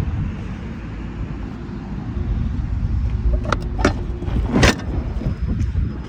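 Scania R420 truck's diesel engine running with a steady low rumble. A few sharp clicks come a little past halfway, then a short hiss about three-quarters of the way through.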